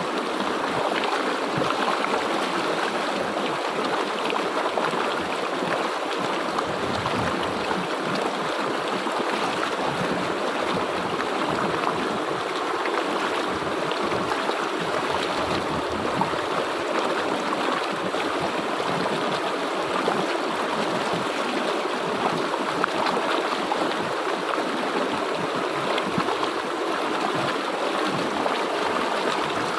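River water flowing over rocks, a steady rushing with gurgling and splashing.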